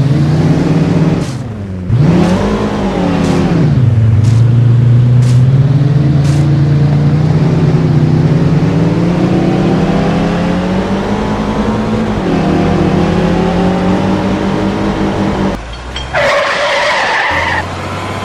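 A motor vehicle engine running loud, its pitch dipping and rising twice in the first few seconds, then climbing slowly and holding steady. Near the end a shorter, higher-pitched sound cuts in briefly.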